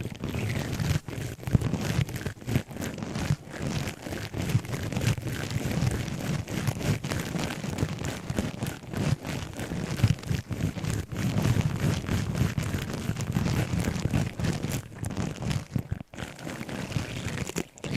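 Objects handled close to the microphone: continuous dense crackling and rustling with many small irregular clicks.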